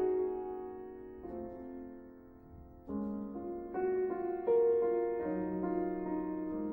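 Slow, soft piano music: held chords fade away over the first couple of seconds, and new notes come in again about three seconds in.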